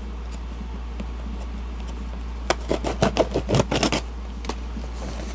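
Packaging being handled and opened by hand: a run of sharp crinkles and clicks from about two and a half to four seconds in, over a steady low hum.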